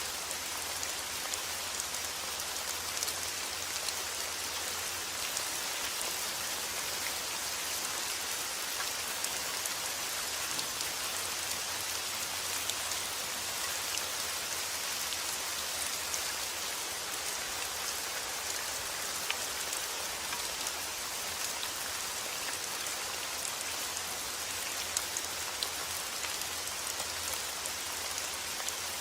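Steady rain falling, an even hiss with the scattered patter of individual drops striking a surface.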